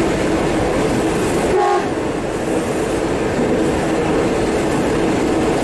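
KRL KFW electric multiple unit running through heavy rain, heard from the driver's cab: a steady rushing noise of the moving train and the rain, with a steady hum beneath. About one and a half seconds in there is a brief higher tone.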